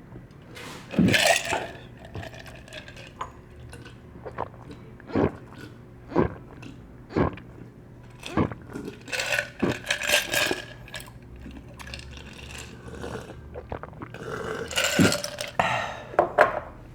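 Close-miked drinking of an iced drink: short gulps about once a second, then denser stretches of ice clinking against the glass and crunching, with a louder burst, possibly a burp, near the end.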